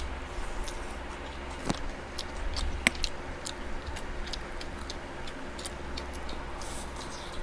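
A person eating close to the microphone: irregular chewing and mouth clicks, with one sharp click about three seconds in, over a steady low hum.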